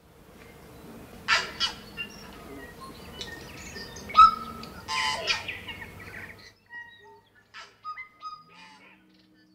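Birdsong: several birds chirping and whistling over a faint steady ambient background that drops away about six and a half seconds in, leaving sparser, quieter chirps. A low steady tone enters near the end.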